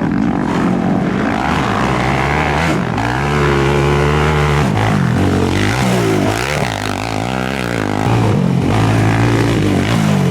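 Racing quad bike (ATV) engines running hard, the pitch rising and falling with the throttle. The note holds steady for a second or so around three to four seconds in, then swings up and down.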